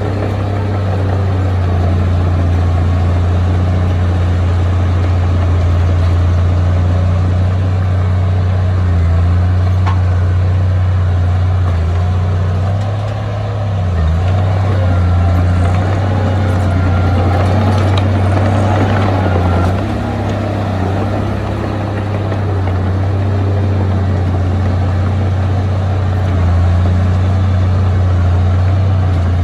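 Heavy diesel engine of earthmoving equipment running steadily with a deep hum, with a rougher, noisier stretch for a few seconds just past the middle.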